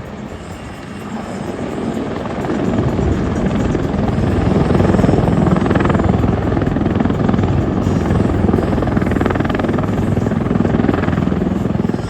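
Helicopter flying past, its engine and rotor noise growing louder over the first few seconds and then holding steady.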